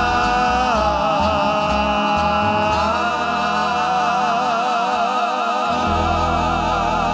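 A western close-harmony vocal group holds one long sung chord with vibrato, the drawn-out last note of a song, over band accompaniment with a steady bass.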